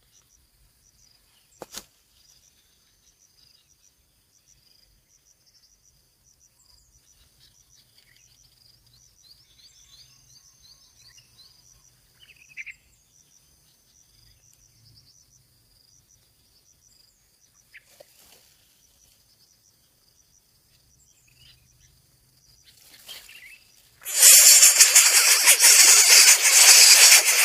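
Faint insect trills with a few short bird chirps, then about 24 seconds in a loud, steady hiss cuts in and drowns everything out.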